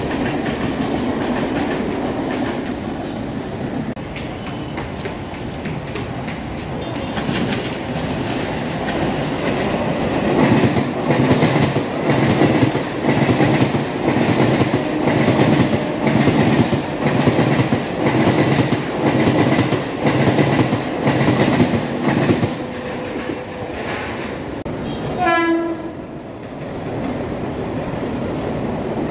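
Mumbai suburban electric local trains passing at speed: a steady rumble, then from about ten seconds in the rhythmic clatter of wheels over rail joints at about one beat a second, and a brief horn blast a few seconds before the end.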